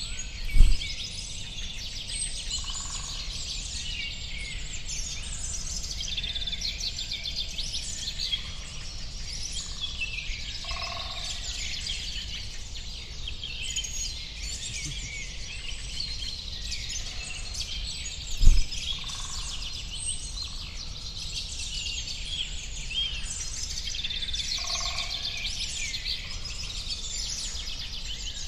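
Many small birds chirping and twittering at once in a dense, continuous chorus, with a few lower calls mixed in. Two brief low thumps stand out, one right at the start and one about two-thirds of the way through.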